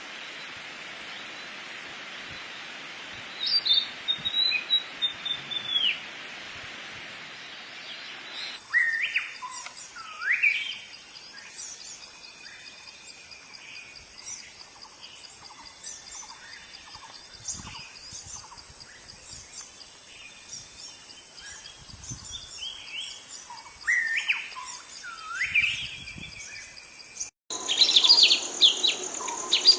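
Wild forest birds singing and calling, with short whistled and chirping phrases from several birds. The recording changes abruptly twice: a hissy first part with a single falling whistle, then many calls over a steady high insect drone, then a louder burst of dense chirping near the end.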